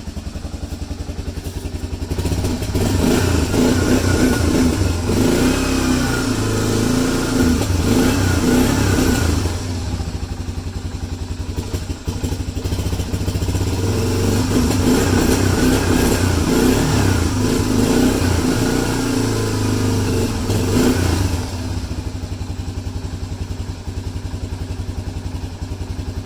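1986 Honda 4Trax 350's single-cylinder four-stroke engine running just after a cold start, its speed raised twice for several seconds at a time and settling back to a steady idle in between and near the end.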